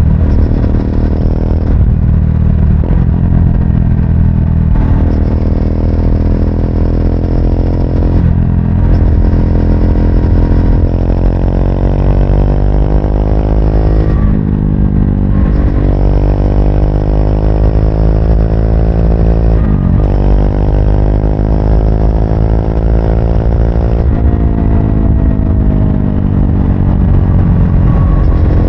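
Triumph Speed 400's single-cylinder engine pulling under way, its pitch climbing and then dropping at each of several gear changes.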